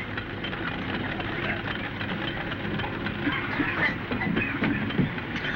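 Rainmaker's wagon machine running with a steady mechanical clatter of rapid small rattles and clicks.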